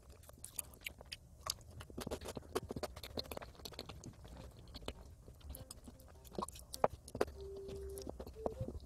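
Close-up chewing and crunching of a crispy pastry filled with crunchy peanuts: a run of small crackly snaps as it is chewed, with louder crunches about seven seconds in.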